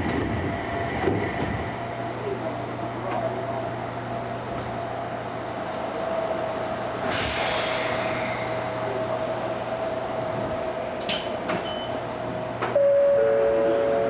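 Ohmi Railway electric train running along the track, heard from inside the driver's cab: a steady rumble of wheels on rail under a steady whine, with a few clicks over the rail. Near the end a louder sustained tone starts, and a lower tone joins it about half a second later.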